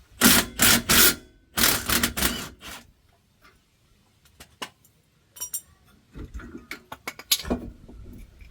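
Mechanic's tool work on a car's brakes: a run of short, loud rattling bursts in the first three seconds, then scattered sharp metal clicks and clanks.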